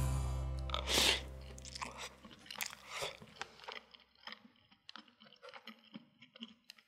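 Background music fading out over the first two seconds, then close, faint eating sounds: a person chewing food, with soft irregular clicks and small crunches.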